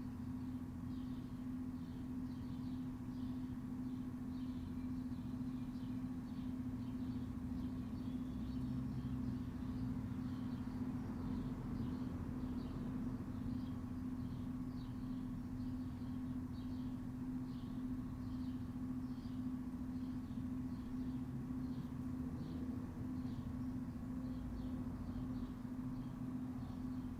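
Backyard ambience: a steady low hum, with short high chirps repeating about twice a second.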